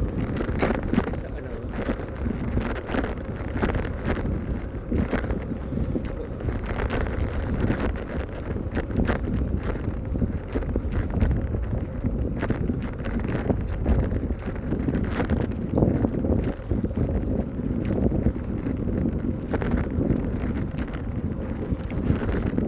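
Wind buffeting the microphone of a camera riding along on a moving bicycle: a steady low rumble broken by frequent short gusty thumps.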